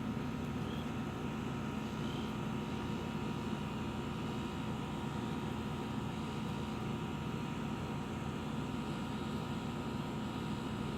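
A steady mechanical hum with hiss, holding an even level throughout. Two faint short chirps come in the first two seconds or so.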